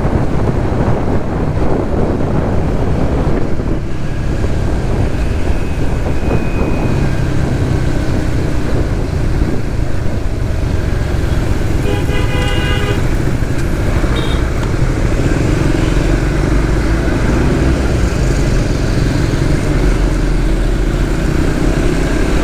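Suzuki GSX-S150's single-cylinder engine running under way, with steady traffic noise. About halfway through, a vehicle horn sounds for about a second.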